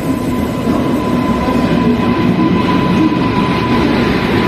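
Passenger train pulling in alongside a station platform: an Indian Railways locomotive and its coaches roll past with a steady rumble of wheels and running gear that grows a little louder as the locomotive comes alongside. A thin steady tone runs through the noise.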